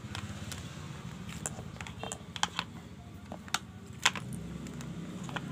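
Sharp, irregular clicks and taps from handling a fan motor's wiring and tools, over a low hum that grows louder about four seconds in.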